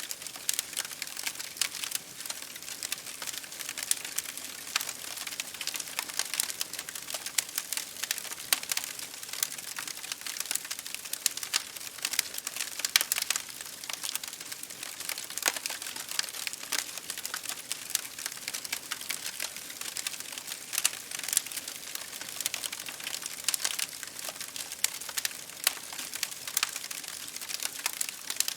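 Campfire crackling steadily, with a constant stream of small, sharp, irregular snaps and pops over a soft hiss.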